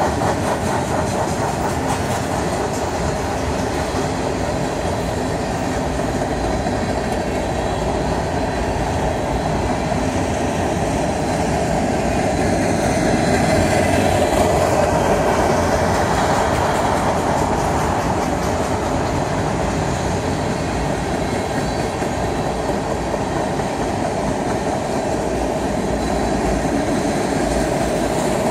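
Freight train cars (tank cars and covered hoppers) rolling past steadily, steel wheels running on the rails, with a slight swell about halfway through.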